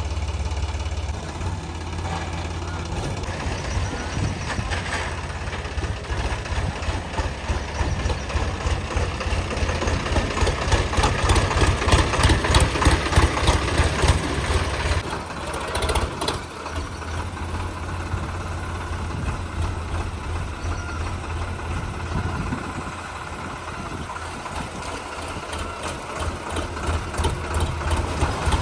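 Sonalika DI-35 tractor's diesel engine running steadily, growing louder through the middle and easing back after about fifteen seconds.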